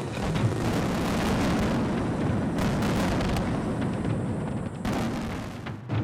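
Fireworks bursting in rapid succession: a dense, continuous barrage of booms and crackle, easing slightly near the end.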